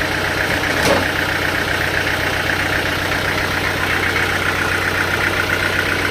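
Sawmill machinery running steadily: a constant engine-like hum with a fast, even pulsing, and one sharp knock about a second in.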